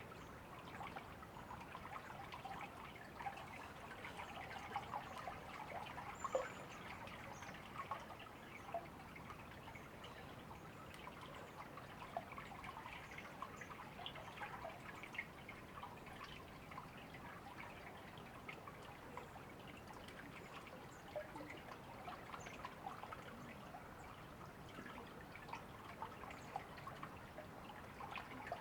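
River water flowing and trickling, a faint steady babble made of many small irregular splashes.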